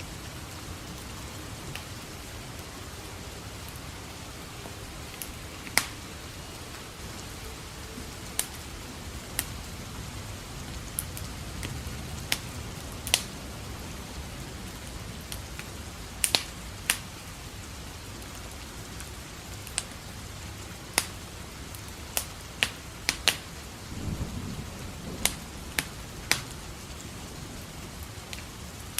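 Steady rain falling, with a wood fire crackling over it: sharp pops come at irregular intervals, some in quick pairs. A low rumble of thunder swells briefly about three-quarters of the way through.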